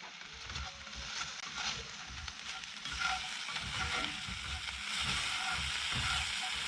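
Shredded potatoes (hash browns) frying in a pan, a steady sizzle that grows louder about halfway through, with irregular knocks of a utensil stirring them.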